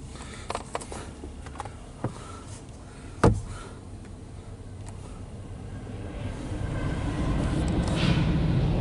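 A few light clicks and one sharp knock about three seconds in, then from about six seconds the low rumble of a CSX freight train's locomotive, which swells steadily as it draws alongside.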